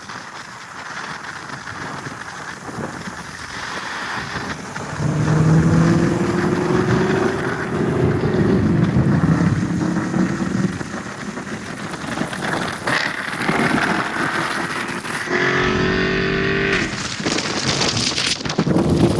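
Car engine accelerating hard, its note climbing steadily, over a hiss of rain and wet road noise. A second surge of acceleration comes near the end.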